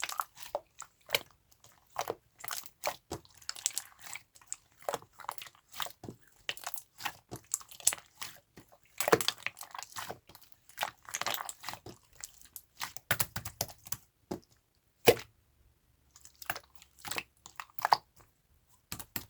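Close-up crunching, squishing and clicking, irregular, with brief lulls.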